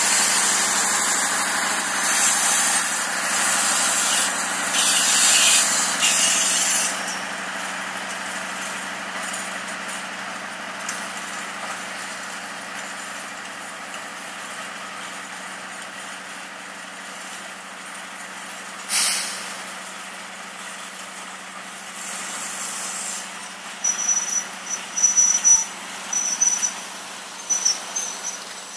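Ciremai passenger train coaches rolling past on the rails, loudest for the first six seconds, then running on more quietly and steadily. Near the end come short, high-pitched wheel squeals as the coaches take the curve.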